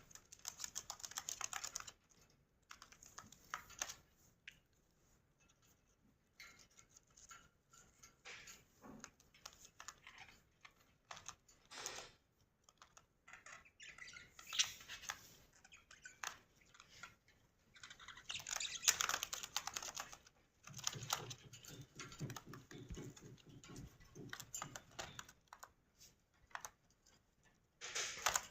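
Budgerigars chattering, a quiet, dense run of clicks and short chirps that comes and goes in bouts, loudest a little past the middle.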